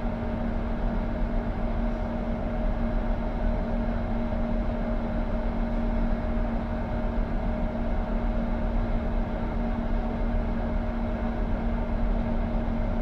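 Passenger train running steadily, heard from inside the carriage: a continuous rumble with a constant two-pitch hum.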